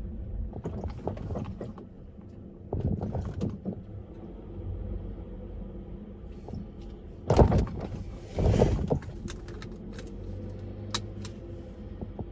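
Car driving, with a steady low road rumble and several loud knocks and thumps, the loudest about seven and a half and eight and a half seconds in.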